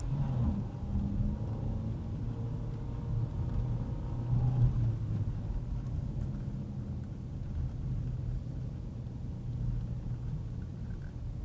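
Car engine running steadily at low revs, with a low rumble of the car on the road.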